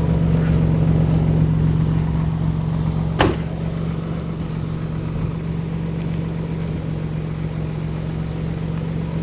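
Nissan 300ZX's naturally aspirated 3.0 V6 idling steadily while parked, with a single sharp knock about three seconds in.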